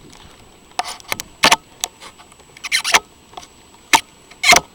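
Handling noise on a handheld camera: a string of sharp clicks, knocks and short rubbing scrapes, some in quick pairs, over a faint background.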